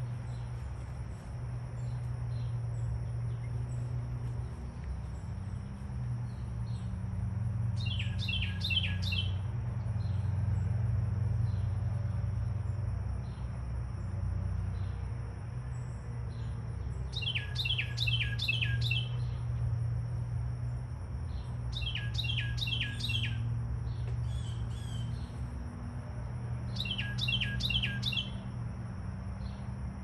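A songbird singing four bursts of quick down-slurred whistled notes, each burst a run of several notes, spread a few seconds apart. Behind it are a steady high-pitched whine and a low steady rumble.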